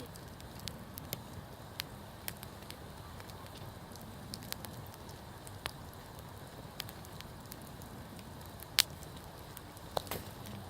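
Wood campfire burning: a steady low rush with frequent sharp crackles and pops, a couple of louder pops near the end.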